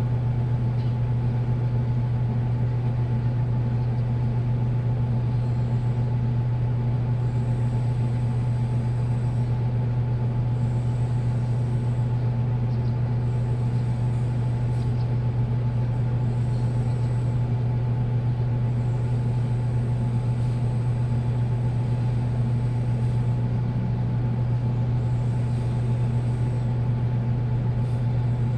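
Washing machine drum spinning at a steady speed: a constant low hum that does not change in pitch or level, with a faint high whine that comes and goes.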